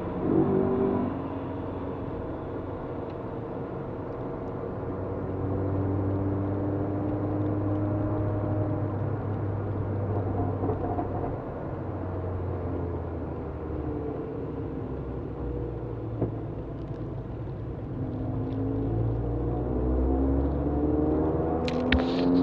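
Peugeot 206 RC's 2.0-litre four-cylinder engine heard from inside the cabin, running steadily at part throttle with tyre and road noise on the wet track. The engine note rises near the end as the car accelerates, with a few brief clicks.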